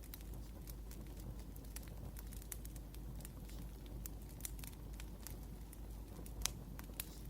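Wood fire crackling: irregular sharp pops and snaps over a low steady rumble, with one louder pop about six and a half seconds in.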